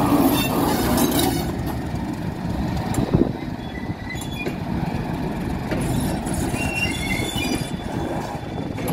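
A Class 31 diesel locomotive and its coaches pulling away, with the diesel engine running and the wheels rumbling over the rails. The sound is loudest at the start as the locomotive passes, there is a sharp knock about three seconds in, and faint brief wheel squeals come later.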